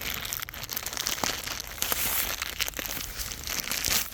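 Dry leaves and brush rustling and crunching as someone moves through a dense bamboo thicket, with irregular sharp crackles throughout.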